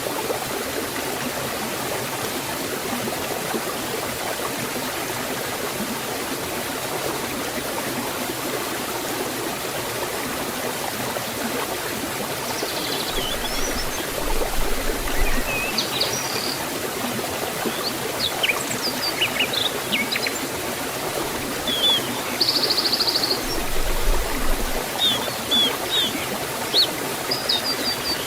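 Forest waterfall and stream water rushing in a steady, even wash. From about halfway through, small birds call over it with short high chirps, including one brief buzzy trill.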